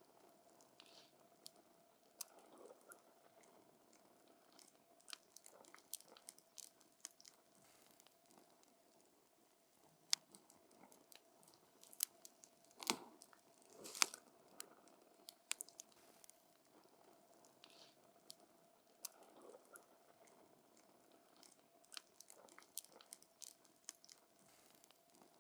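Wood campfire crackling: irregular sharp snaps and pops of burning wood, the loudest pair about halfway through, over a faint steady hum.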